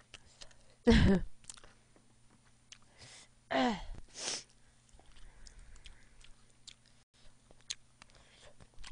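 Close-miked chewing and small wet mouth clicks of a woman eating. There are two short falling vocal sounds, one about a second in and one about three and a half seconds in, each followed closely by a short hiss of breath.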